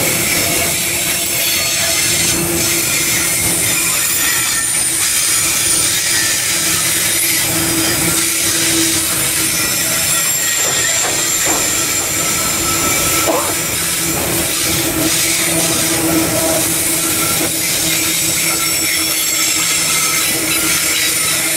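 Loaded bauxite hopper wagons rolling past close by: the steady rumble and hiss of steel wheels on rail, with thin wheel squeals coming and going.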